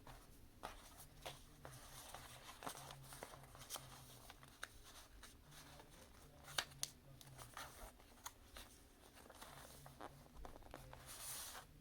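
Faint rustling of a sheet of paper being folded and creased by hand, with scattered soft clicks and scrapes, over a low room hum.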